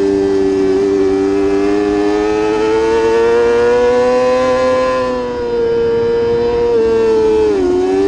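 Superbike racing motorcycle engine held at high revs, its pitch slowly climbing over the first few seconds, then easing off, with a quick dip in pitch near the end before it climbs again.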